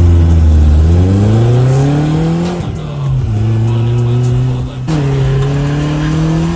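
Drift car's engine running hard: its pitch climbs steadily, drops sharply about two and a half seconds in, holds, then jumps near five seconds in and climbs again.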